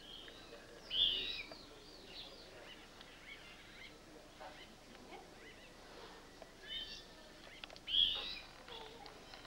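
Birds calling and chirping, with two louder high calls, one about a second in and one near the end, and fainter calls in between.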